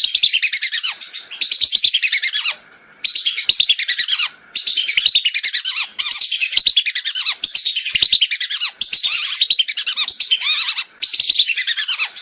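Lesser whistling ducks (belibis) calling as a hunting lure call: loud runs of rapid, shrill whistled notes, each run sliding down in pitch over about a second and a half, repeated run after run with short breaks.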